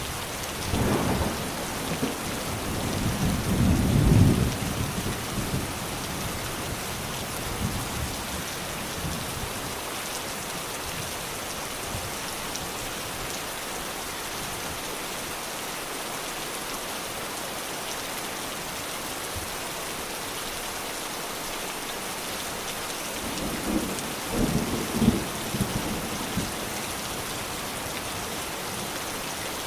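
Steady rain falling, with two low rolls of thunder: one in the first few seconds, the other near the end.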